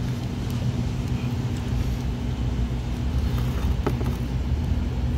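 Steady low hum of an idling motor vehicle, with malt liquor pouring from a glass bottle into a pint glass at the start and one light clink about four seconds in.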